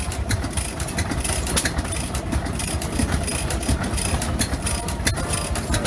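Old stationary engine running steadily at idle, with a fast low pulsing and many sharp clicks from its valve gear.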